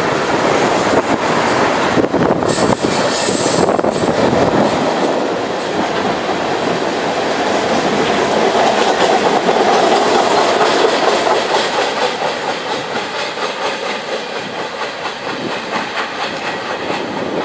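A mixed freight train of boxcars, autoracks and empty gondolas rolls past: a steady, loud rolling noise of steel wheels on rail, with frequent clicks. It eases off a little as the last cars go by near the end.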